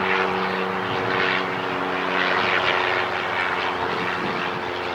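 Aircraft engines running steadily: a low hum of several steady tones under a rushing noise that swells and fades.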